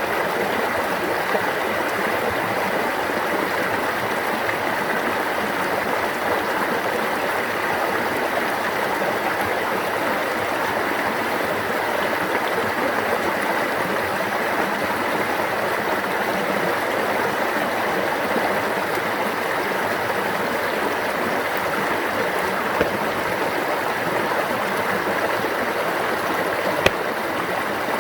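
Water running steadily in a stream, an even babbling rush, with one brief click near the end.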